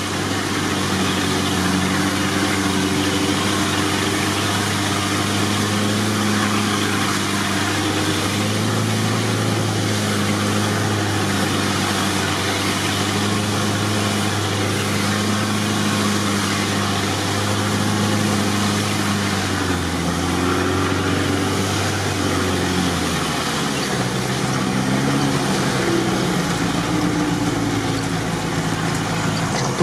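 Off-road 4x4's engine running steadily while driving through water-filled ruts, heard from inside the cab with a steady hiss of rain and water. About twenty seconds in the engine note drops and changes.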